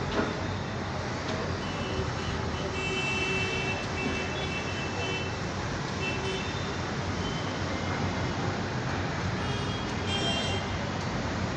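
Steady road traffic noise, with vehicle horns sounding: a run of honking from about two seconds in, and more near the end.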